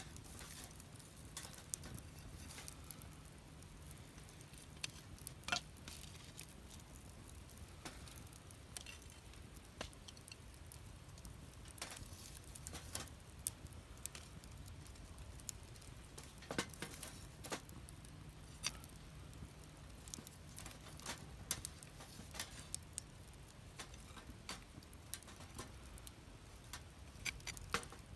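Wood fire burning in a fire pit, crackling quietly with scattered irregular snaps and pops over a faint low hum.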